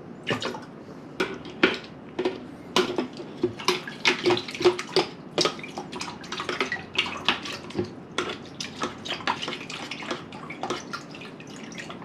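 Water sloshing in a cup with irregular knocks and clinks, a few each second, as vitamin powder is mixed into a liter of water.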